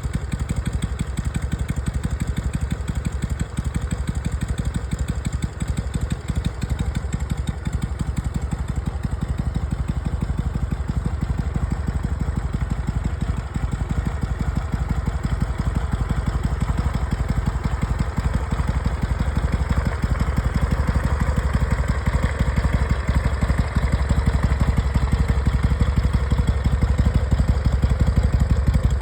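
Harley-Davidson Sportster 883's air-cooled V-twin idling steadily, a little louder in the second half. It is running smoothly after a new battery and a new carburetor insulator.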